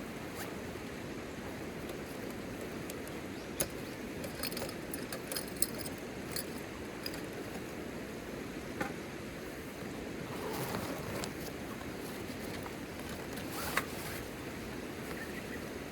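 Steady rain falling, with a few scattered sharp clicks and clinks.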